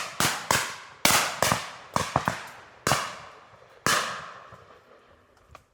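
A volley of shotgun shots from several guns firing at driven game birds: about eight sharp bangs close together over four seconds, some overlapping, each with a long echoing tail.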